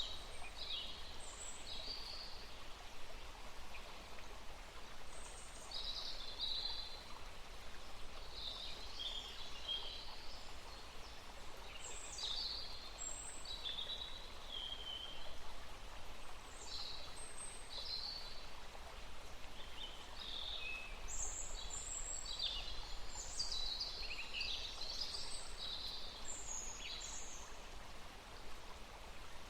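Several small birds singing and chirping over a steady background hiss: short high phrases and calls, overlapping at times, with no let-up.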